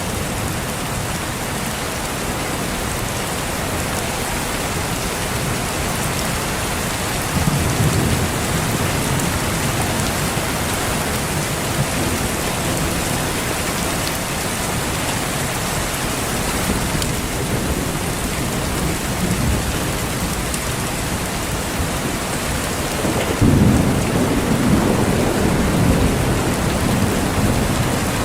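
Steady heavy rain with rolls of thunder: a low rumble about seven seconds in and a louder, longer one near the end.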